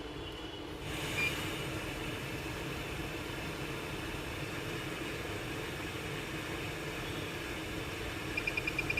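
BiPAP machine running steadily, a low hum with an airflow hiss that grows louder about a second in, marked by a brief high tone. Near the end, rapid high beeping pulses start, several a second.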